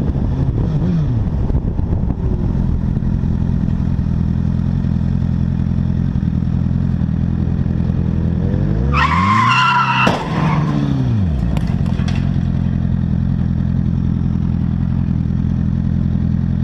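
Steady drone of a car's engine and road noise. About nine seconds in, a high squeal lasts about a second and a half, ending in a single sharp bang of a collision, followed by a few faint clicks.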